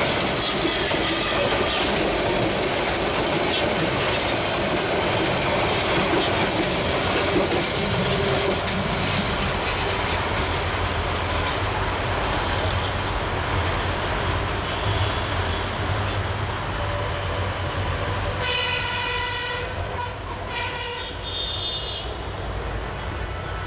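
Metre-gauge passenger train coaches rolling past close by, their wheels clattering over the rail joints, then the steady low rumble of a diesel train approaching. A train horn sounds twice near the end, two blasts about two seconds apart.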